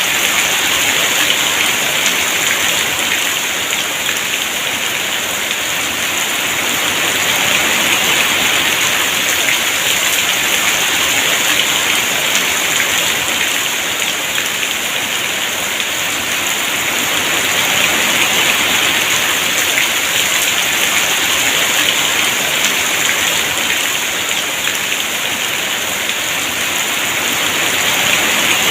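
Heavy rain pouring steadily, a dense hiss of drops that swells and eases gently every several seconds.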